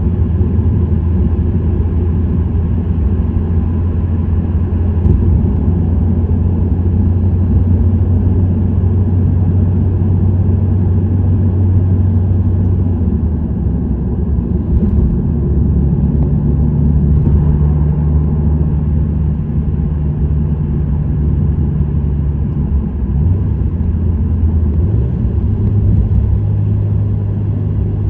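Subaru WRX STI's turbocharged EJ20 flat-four engine and STI Performance exhaust at a steady cruise: a low, continuous engine drone over road rumble. The pitch of the drone shifts about halfway through and again toward the end as the revs change.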